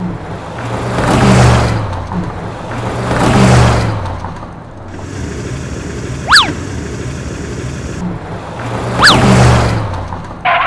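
Vehicle engine sound effects revving up and down in loud swells over a steady low hum, with two quick sharp zips, one past the middle and one near the end.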